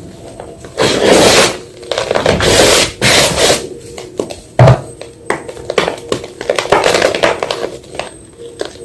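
A block of white gym chalk crunching and crumbling: three loud crunches in the first few seconds, a sharp snap about halfway through, then a run of small crackles.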